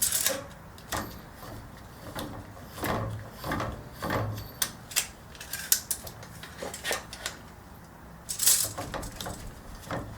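Irregular metallic clicks and clanks of hand tools working a coilover while its spring preload is adjusted, with a louder clatter near the end.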